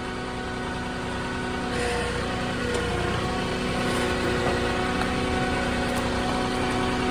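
Flatbed truck's engine running steadily while the loaded truck backs slowly down a steep hill, growing a little louder about two seconds in.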